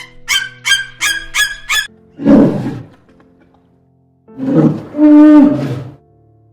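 Animal calls over background music: five quick high-pitched yelps in a row, then two deeper, longer calls, the second holding a steady pitch before it fades.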